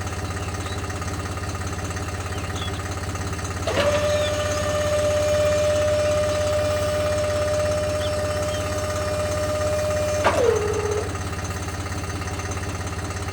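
A steady low hum, joined about four seconds in by a small electric motor whining at one steady pitch. After about six seconds the whine drops in pitch and dies away.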